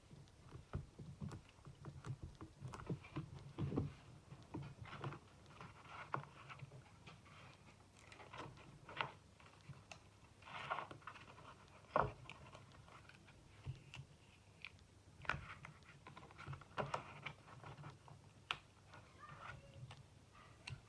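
Faint scattered taps, scrapes and rustles of paper and cardstock being handled on a craft table, over a low steady hum.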